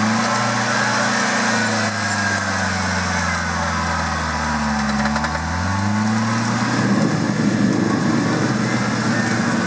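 Off-road competition vehicle's engine revving hard. It holds a high pitch, dips briefly about halfway through, then climbs again and runs rougher for the last few seconds.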